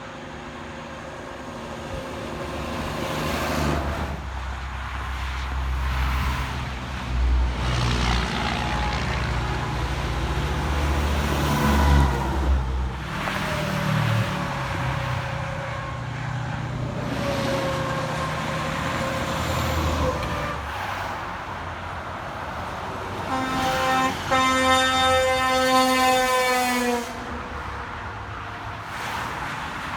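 A heavy truck's diesel engine pulling past on the road, its note stepping in pitch as it works through the gears. Near the end a truck air horn sounds: a short toot, then a blast of about three seconds that sags slightly as it stops.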